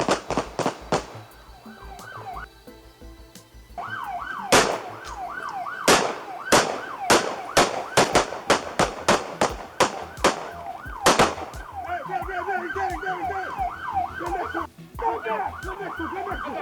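A quick volley of gunshots right at the start, then an emergency-vehicle siren yelping in fast rising-and-falling sweeps. From about four seconds in, gunshots ring out one at a time, about two a second, until about eleven seconds in.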